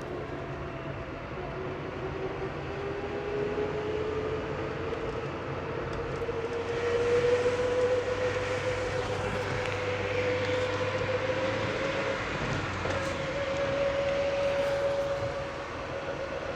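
Chevrolet Celta accelerating, with a whine that climbs slowly in pitch and then holds high, over the steady engine noise. The whine grows as the car accelerates; the owner likens it to a turbo or to reverse-gear whine.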